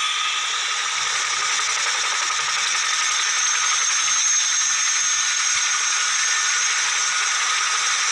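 Military helicopter turbine engines running with a steady high-pitched whine over a loud hiss.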